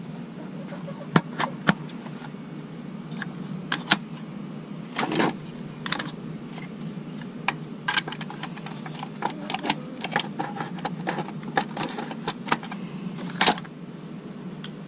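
Plastic housing and parts of a Dirt Devil vacuum cleaner clicking and knocking as they are fitted back together, many separate sharp clicks over a steady low hum.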